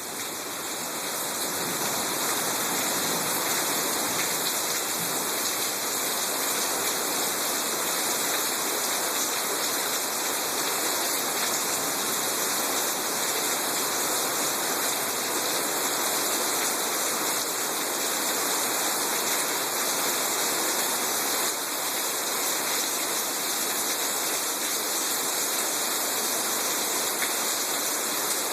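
Heavy thunderstorm rain pouring down in a steady, loud hiss that swells over the first couple of seconds.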